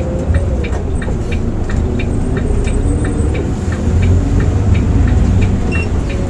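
Volvo B8R coach on the move, heard from inside: a steady low engine and road rumble with frequent small clicking rattles over it.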